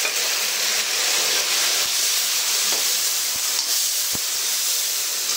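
Chopped tomatoes and shallots sizzling in hot oil in a kadai just after the tomatoes go in: a steady, loud frying hiss, with a few faint spatula knocks as they are stirred.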